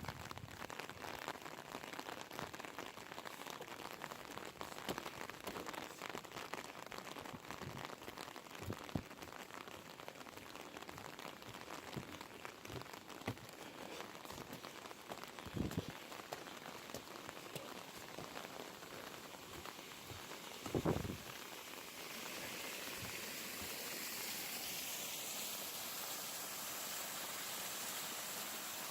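Rain falling, a steady hiss dotted with fine raindrop ticks. There are a couple of low thumps about midway. From about two-thirds of the way in, the hiss turns steadier and brighter.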